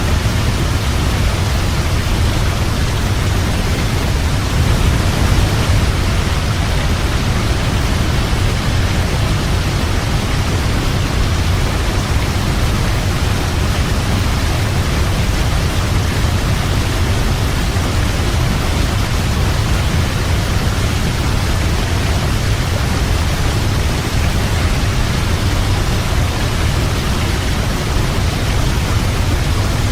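Waterfall: a steady, even rush of falling water with a strong deep rumble underneath.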